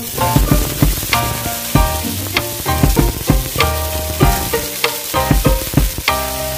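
Food sizzling in hot oil in a pan, starting suddenly, with frequent sharp ticks through the hiss, over instrumental music.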